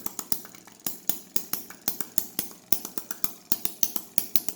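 Mini internal combustion engine running, giving a rapid, slightly uneven train of sharp ticks or pops, about six or seven a second.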